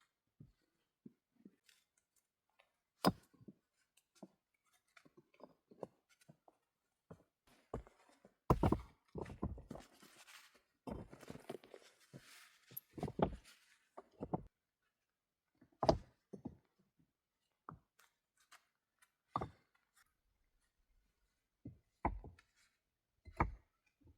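Scattered knocks and thuds from hands-on work, with a busier stretch of scraping and rustling in the middle.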